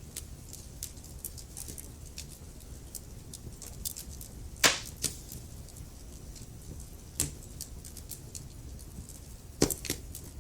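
Wood fire crackling in a fireplace: a low steady rumble of flames with frequent small ticks and a few loud sharp pops, the loudest about halfway through and two more near the end.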